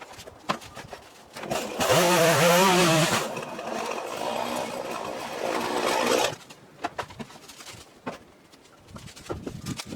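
Chainsaw running loud at high revs with a wavering pitch, then carrying on at a steadier level until it cuts off about six seconds in. A few scattered knocks follow.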